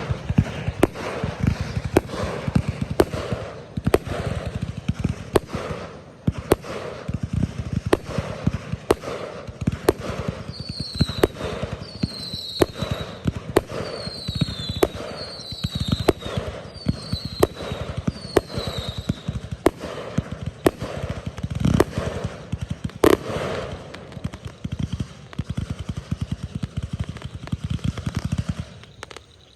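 Fireworks going off: a dense run of sharp pops and crackles with low booms throughout. For several seconds in the middle, a high, falling chirp repeats about once a second.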